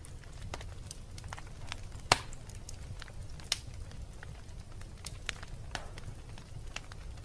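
Wood fire burning in a fireplace, with a steady low rumble under irregular sharp crackles and pops; the loudest pop comes about two seconds in and another strong one a second and a half later.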